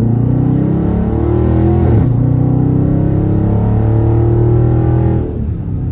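Dodge Charger Scat Pack's 6.4-litre HEMI V8 at full throttle through its mid-muffler-deleted exhaust, rising in pitch, dropping briefly at an upshift about two seconds in, climbing again, then falling away as the throttle is lifted near the end.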